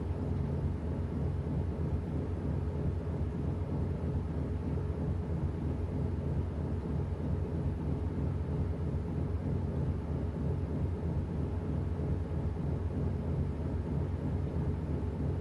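Washing machine running mid-cycle: a steady low motor hum with a constant drone, no pauses or changes.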